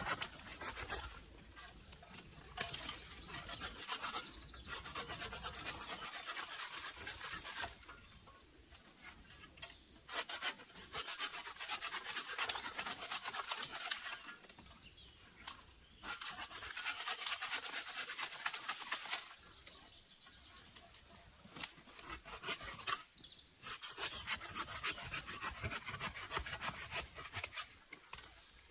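A hand tool rasping against wood in repeated bouts of a few seconds each, with short pauses between.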